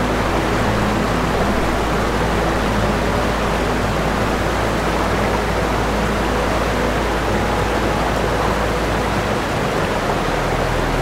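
Steady rushing of sea water around rocks: a dense, even hiss with no separate wave surges.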